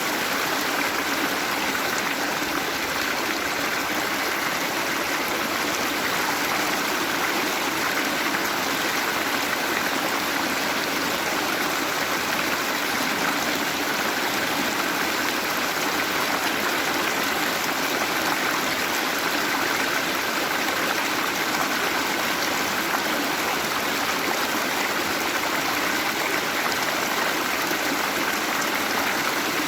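Waterfall: water falling and rushing steadily, a continuous even sound with no change.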